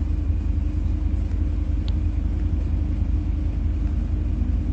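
PAZ-4234-04 bus engine running as a steady low drone, heard from inside the cabin, with a faint tick about two seconds in.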